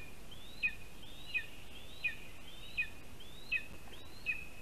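A bird calling over and over at a steady pace, about three calls every two seconds. Each call is a whistle that rises and then drops sharply, over faint steady background hiss.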